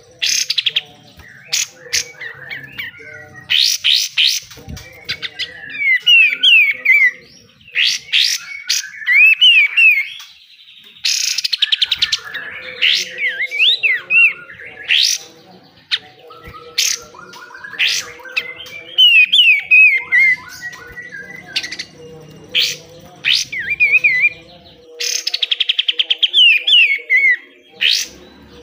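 Kapas tembak (katem) bulbul singing: short whistled phrases sliding down in pitch, alternating every few seconds with fast, harsh rattling bursts, the 'besetan' that keepers prize. A faint steady hum lies underneath.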